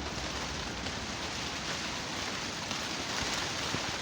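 Heavy rain falling steadily during a severe thunderstorm, a constant even hiss.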